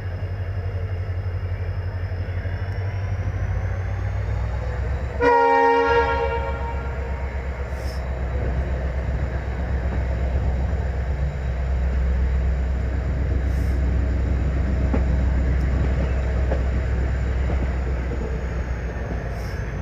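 Indian Railways passenger train with ICF coaches running at speed: a steady low rumble of wheels on track, with a faint high whine that rises in pitch about three seconds in. About five seconds in, the train horn blows once for about a second, the loudest sound.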